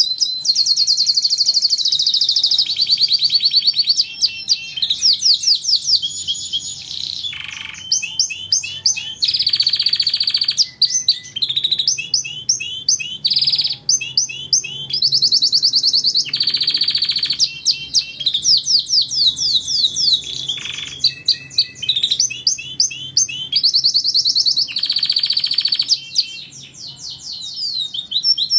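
Domestic canary singing a long continuous song of rapid trills and repeated rising and falling phrases, changing phrase every second or two.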